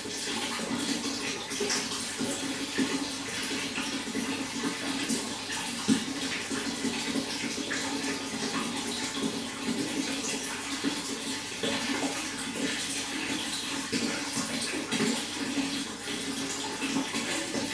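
Running water flowing steadily, with small splashes and drips flickering through it and one slightly louder splash about six seconds in.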